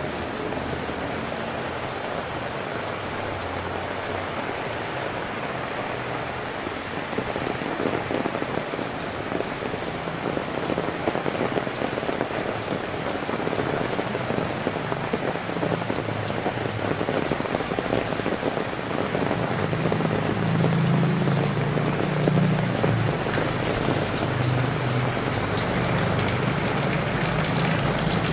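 Heavy rain falling steadily. From about halfway through, a low rumble builds and grows louder towards the end.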